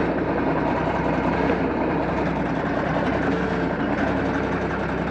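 John Deere 4630 tractor's six-cylinder diesel engine running steadily.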